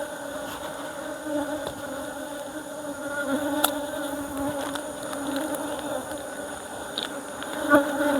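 Honeybees buzzing in a steady hum at an opened hive, with a few faint clicks.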